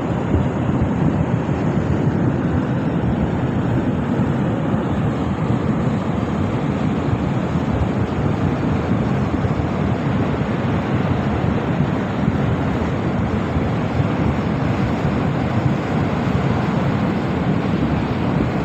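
Floodwater rushing in a steady, loud noise without a break.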